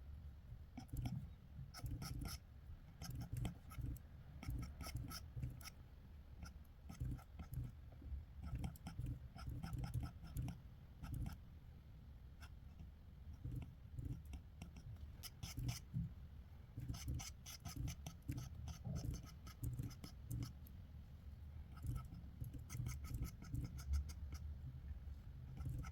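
Drawing strokes scratching on paper during quick figure sketching: runs of short, fast strokes in irregular bursts with brief pauses between them.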